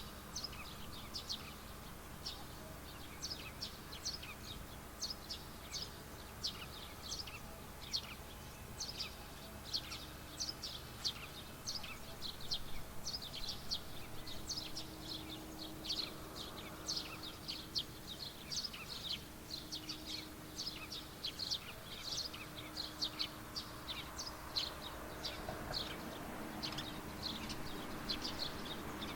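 Many small birds chirping, short high chirps coming several times a second without a break. A faint steady low hum runs under them through the second half.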